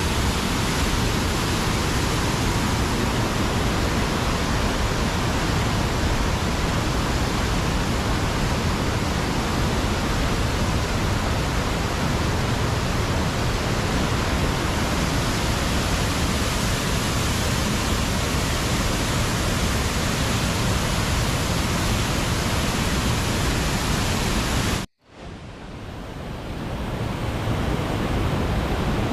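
Waterfall with rushing water, a loud steady roar. It cuts out sharply near the end and fades back in.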